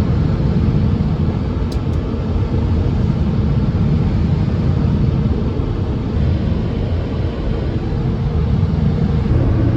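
Automatic touchless car wash machinery running, heard from inside the car as a steady low rumble.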